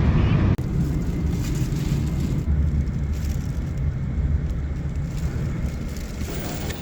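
Steady low rumble of a vehicle in motion, with a brief dropout about half a second in.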